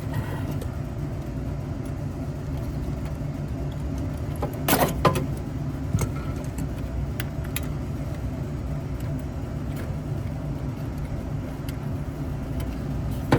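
Steady low background rumble, with a short metallic clatter of hand tools and parts being handled about five seconds in and a few light clicks after it.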